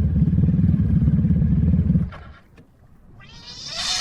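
A loud, low, rapidly pulsing rumble that cuts off about two seconds in. Near the end a cat lets out a meow that swells, then breaks off.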